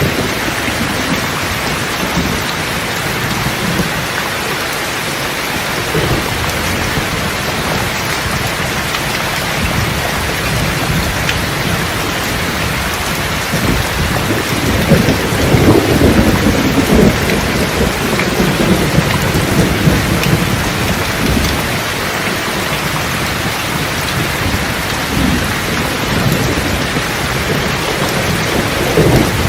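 Steady heavy rain with rolling thunder; a louder, longer rumble of thunder swells about halfway through and fades over several seconds.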